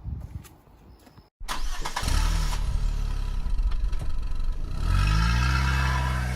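After an abrupt cut, a motor vehicle engine starts and runs loudly, its pitch rising as it revs about two seconds in and again about three and a half seconds in.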